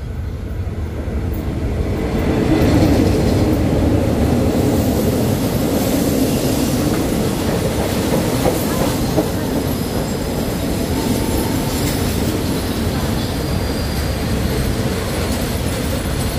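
Passenger train of State Railway of Thailand coaches rolling along the platform track: a steady rumble and clatter of wheels on rails that builds over the first two or three seconds and then holds.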